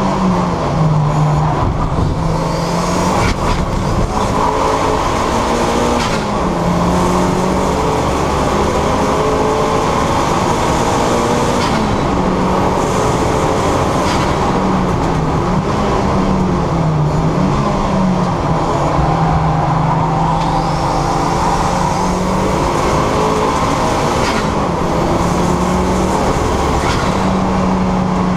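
Turbocharged 2.0 Duratec four-cylinder engine of a Ford Fiesta ST150 running hard on track, heard from the car. Its note rises and falls with the revs, with several rising high whistles.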